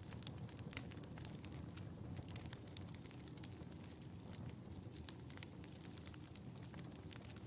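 Wood fire crackling in a fireplace: scattered sharp pops and snaps, a few every second, over a steady low rumble of the flames.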